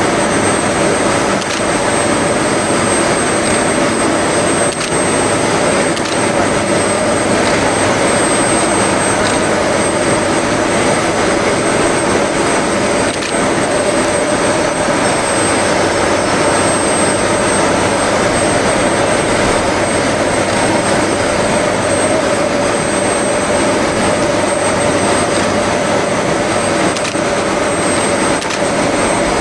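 Steam locomotive giving a steady, loud rushing roar with a constant hum underneath and no separate exhaust beats.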